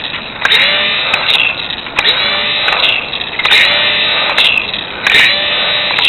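Micro RC airplane's tiny electric motor and propeller revving up in short bursts, about one every second and a half, each rising in pitch as it spins up and then holding steady.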